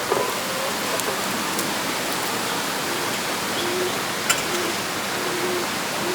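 Chickens clucking softly, several short low notes in the second half, over a steady rushing hiss, with a few sharp clicks.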